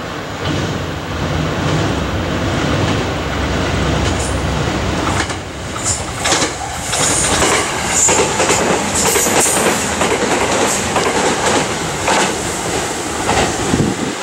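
A JR West 287 series electric limited express passing close by, its wheels clattering over the rail joints in a steady run of clicks. There are several brief high-pitched wheel squeals as it takes the curve.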